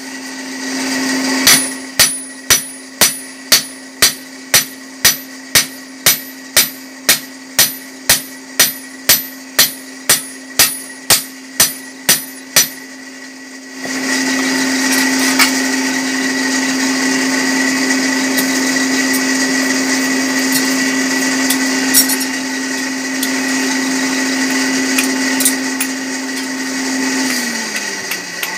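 Blacksmith's hammer striking a hot chopper blade on the anvil, evenly about twice a second for some ten seconds, each blow ringing, over the steady hum of the furnace's electric blower. The hammering then stops and a louder, steady whirring noise takes over; near the end the hum dips in pitch and comes back up.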